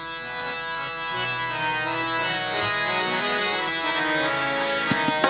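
Harmonium playing a melodic introduction in held reed tones, as accompaniment for a sung devotional verse. Tabla strokes come in near the end.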